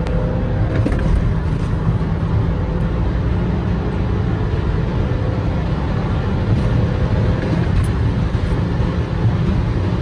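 BMW E90-generation 3 Series diesel car being driven, with a steady, loud low engine and road noise that neither clearly rises nor falls.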